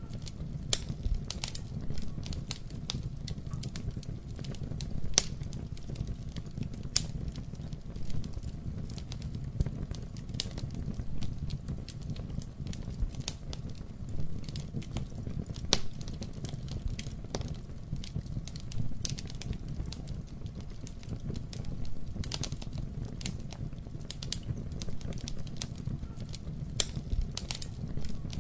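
Campfire burning: irregular sharp pops and snaps of the fire crackling, several a second, over a steady low rumble of the flames.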